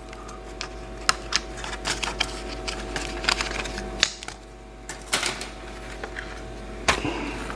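Irregular light clicks and taps of hands working on a laptop, over a steady hum.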